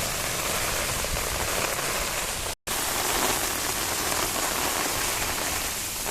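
Steady rain falling and pattering on surfaces, an even, dense hiss. It cuts out completely for a split second about two and a half seconds in, then resumes unchanged.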